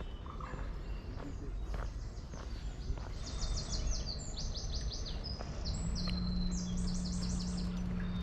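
A songbird singing rapid runs of high, quickly falling notes, starting about three seconds in, over a low outdoor rumble. A steady low hum joins near the end.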